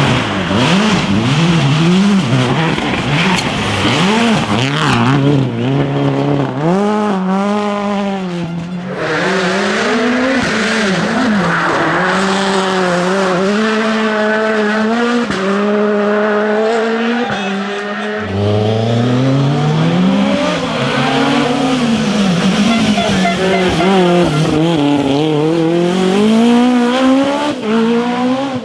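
Rally cars driven hard at speed, engines revving up and dropping back repeatedly through gear changes and lifts. About two-thirds of the way in, another engine note starts low and climbs.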